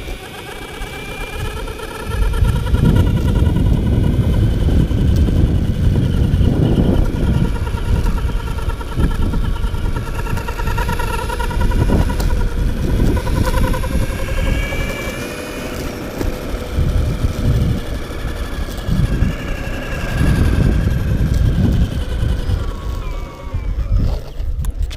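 Blink electric skateboard's belt drive whining, several tones wavering in pitch over a low rumble that comes in about two seconds in; the whine stops near the end. The owner puts the noise down to the belt rubbing against a wobbly drive wheel and gear.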